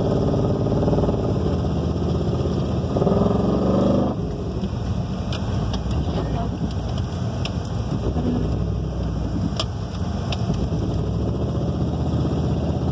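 Jeep Grand Cherokee's gasoline engine running on diesel fuel it was mistakenly filled with, heard steadily from inside the cabin while the vehicle is under way.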